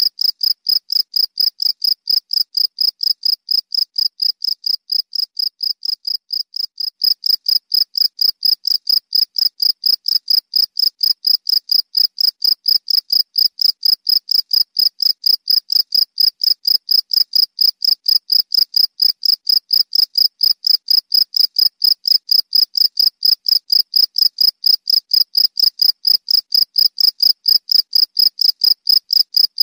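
Cricket chirping in a steady, even rhythm, about three or four high-pitched chirps a second, with no break.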